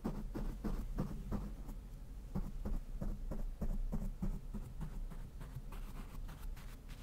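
A brush swept quickly back and forth over a microphone, a continuous run of soft scratchy strokes, several a second.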